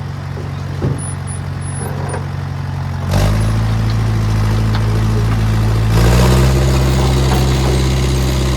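International 125 crawler loader's engine running steadily, its speed stepping up about three seconds in and again about six seconds in as the throttle is opened.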